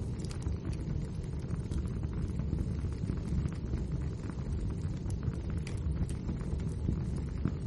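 Wood fire burning in a fireplace: a steady low rumble of the flames with frequent small, irregular crackles and pops of the logs.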